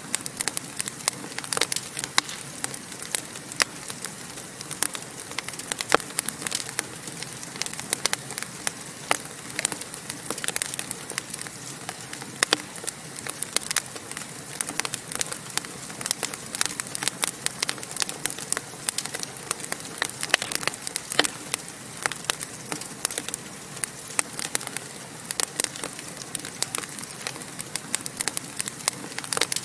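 Wood fire in a fireplace burning, with a steady hiss and frequent sharp crackles and pops.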